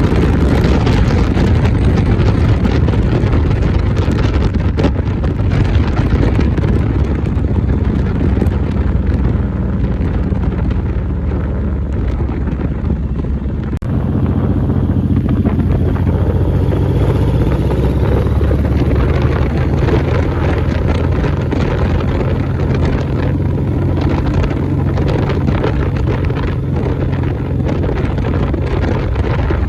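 Motorcycle engine running under way, with wind buffeting the microphone; the engine note changes about halfway through.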